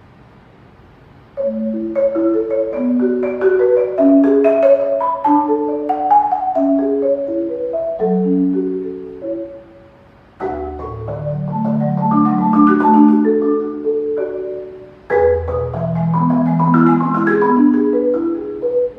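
Solo marimba played with mallets, starting about a second and a half in with quick flowing note figures. After a short break near the middle, two runs climb from the low bass notes upward.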